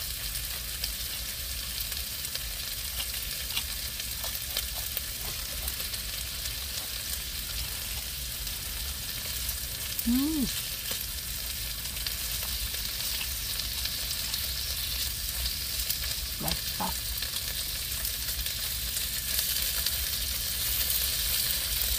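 Food sizzling in a frying pan on a portable stove: a steady frying hiss.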